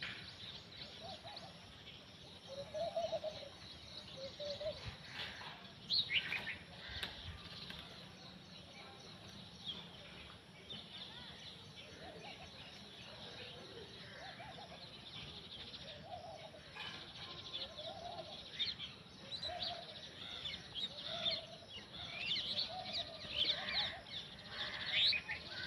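Birds chirping and twittering, with a lower, short call repeated about every second and a half; the chirping gets busier near the end.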